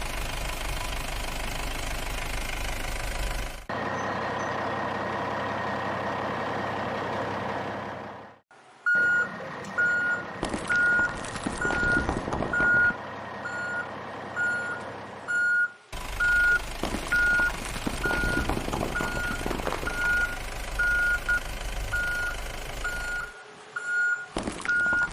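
Added truck sound effects: an engine running for the first several seconds, then a vehicle reversing alarm beeping steadily at one pitch, about one and a half beeps a second, over engine noise and clatter.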